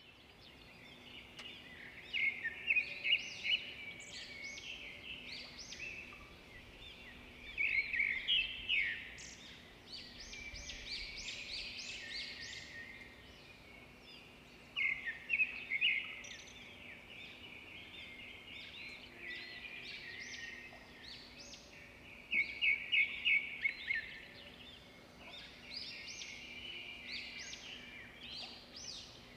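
Small birds chirping, with bursts of quick trills every several seconds over a faint steady hum.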